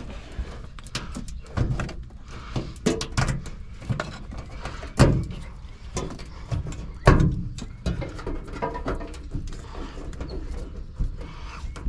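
Wiring harness being worked loose and pulled out of a pickup truck's cab: irregular clicks, rustles and knocks of wires, plastic connectors and clips, with two louder knocks about five and seven seconds in.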